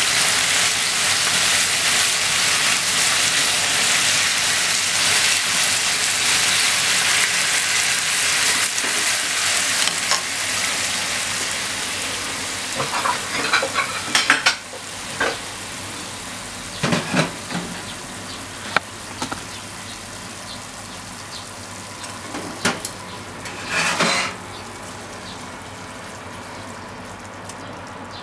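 Pork, cabbage and bean sprouts sizzling loudly in a frying pan as they are stir-fried with chopsticks. About halfway the sizzle drops to a quieter hiss, and scattered clicks and knocks of the chopsticks against the pan stand out.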